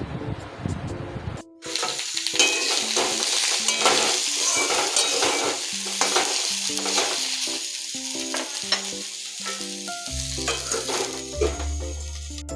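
Food sizzling and crackling as it fries, starting about a second and a half in, under background music.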